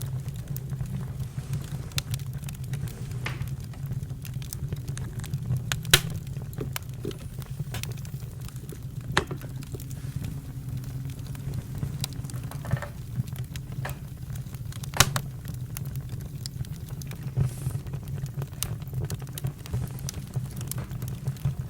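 Campfire crackling: a steady low rumble of burning with scattered sharp snaps, two louder pops about six and fifteen seconds in.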